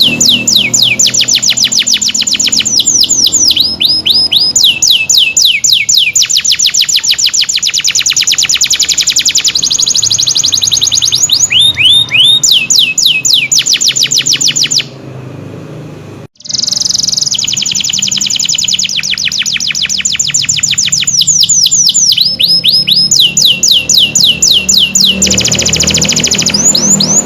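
Domestic canary singing loudly in long rapid trills of repeated falling whistled notes, switching from one trill to another every second or two. The song breaks off briefly about halfway through, then resumes.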